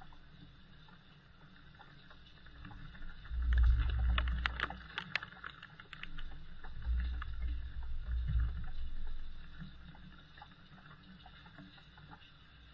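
Light rain heard from a window: a faint steady hiss with scattered drips tapping, and a cluster of sharper taps a few seconds in. A low rumble swells twice, first with the taps and again about two-thirds of the way through.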